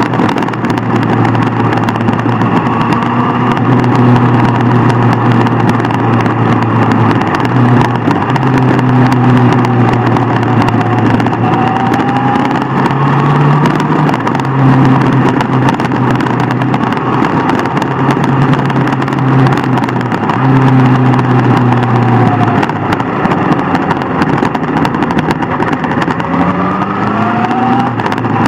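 Superbike engine running under way with a steady note over a constant rush of noise. The pitch shifts up and down a few times and rises near the end as the bike accelerates.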